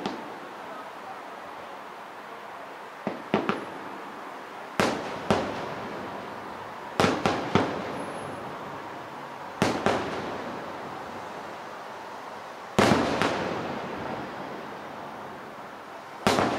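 Aerial fireworks shells bursting, a sharp bang every two to three seconds, often two or three in quick succession, each trailing off in a long rolling echo.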